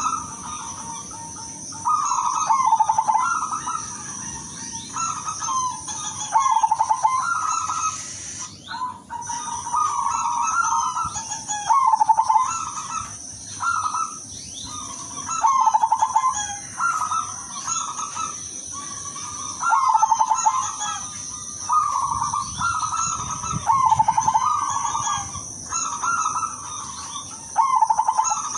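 Perkutut silver (zebra dove) cooing over and over in short, rapidly pulsed phrases, about one every one to two seconds. A steady high-pitched whine runs behind it and breaks off briefly near the one-third mark.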